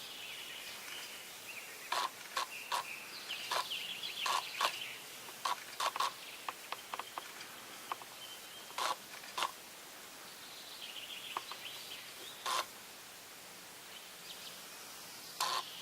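Wild birds calling: a warbling high-pitched song, and many short, sharp calls that come in irregular clusters.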